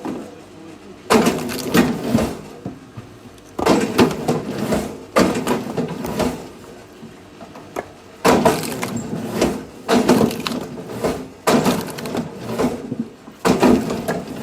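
Firewood being split: several sudden blows, each followed by a second or two of cracking and splintering wood.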